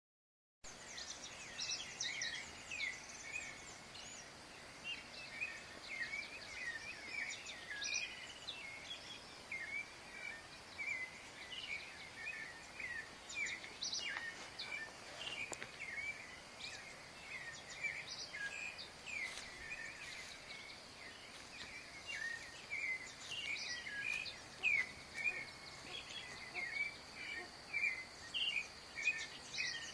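Dawn chorus of many birds chirping and singing in quick, overlapping short calls, among them the clay-colored thrush (yigüirro), over a steady high-pitched insect hum.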